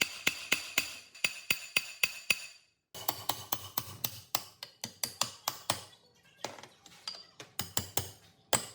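Rapid hammer blows on metal, about four a second, each with a short ringing tone, breaking off just under three seconds in and resuming as a further run of strikes that grows sparser near the end.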